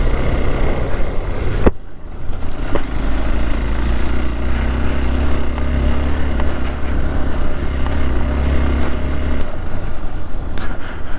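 Hero Xpulse 200 single-cylinder motorcycle engine running steadily while riding, with wind and road noise. There is an abrupt break in the sound about two seconds in.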